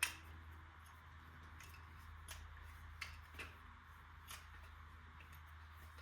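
A sharp click, then a handful of lighter clicks and taps from small hard objects being handled, over a low steady hum.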